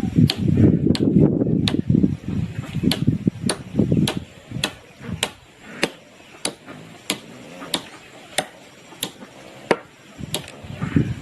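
A steady run of sharp knocks, about three every two seconds, like a blade or tool striking repeatedly, with heavier clattering through the first few seconds.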